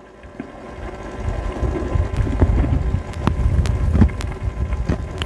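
Wind buffeting the microphone: an uneven low rumble that builds about a second in, with scattered light clicks and knocks.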